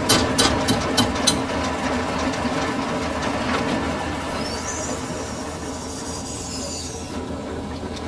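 Lathe running in a machine shop, a steady mechanical hum. A regular clicking about three times a second stops about a second in, and the noise then eases slowly.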